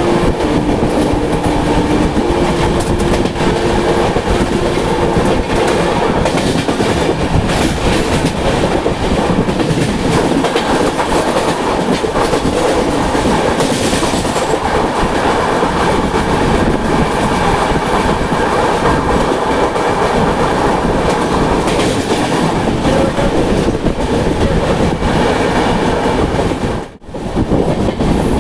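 Passenger express train running at speed: a loud, steady rail rumble with wheels clattering over the track. The sound drops out sharply for a moment about a second before the end, then returns.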